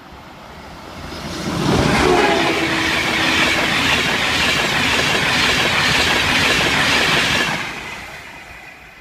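Virgin Trains express passenger train passing at speed through a level crossing close by. The rushing noise swells over about two seconds, holds loud for about five, then fades away.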